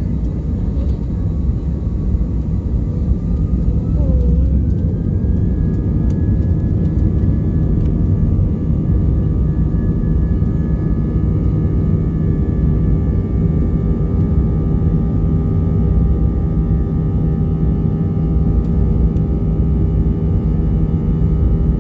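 Airbus A320 jet engines heard from inside the cabin, spooling up about four seconds in with a rising whine, then holding a steady loud rumble and whine at takeoff thrust.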